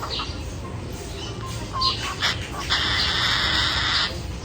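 Cockatiel giving a few short chirps, then one long harsh screech lasting about a second and a half.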